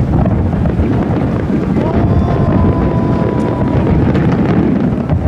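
Fireworks bursting overhead, heard as a continuous low rumble of overlapping booms. About two seconds in, a steady high tone holds for roughly two seconds.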